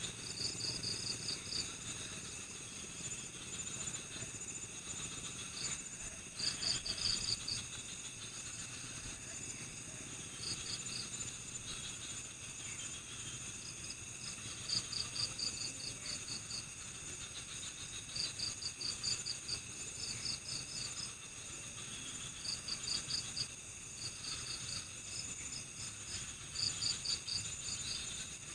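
Night forest chorus of crickets and other insects: a steady high-pitched drone, with short bursts of rapid chirps repeating every few seconds.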